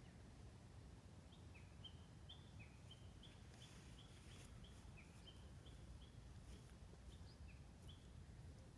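Near silence: a bird's faint short chirps repeating two or three times a second, over a low rumble.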